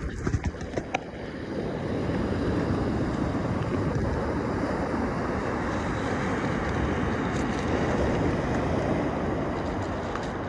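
Surf washing onto a Gulf beach, with wind on the microphone: a steady rush that swells about two seconds in and again near eight seconds. A few light clicks in the first second.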